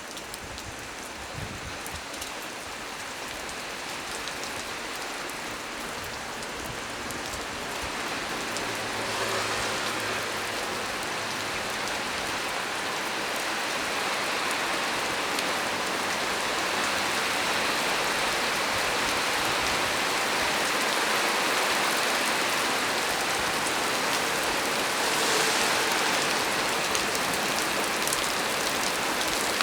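Heavy rain falling on a small tree, a dense, steady hiss of drops that grows heavier over the first ten seconds or so and then holds.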